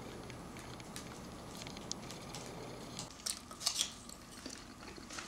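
Light clicks and scratches from a budgerigar moving about and chewing, over a low steady background hum. The clicking gets busier and louder about three seconds in.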